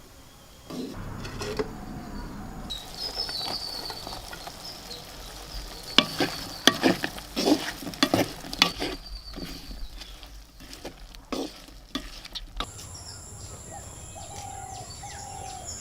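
A utensil knocking and scraping against a cooking pan as food is stirred over the heat, with a run of sharp knocks in the middle. Birds chirp in the background.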